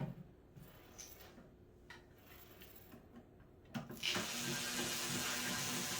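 A few light clicks of parts being handled, then about four seconds in a small electric motor starts and runs steadily with a hum and hiss, as from a power tool used in assembly.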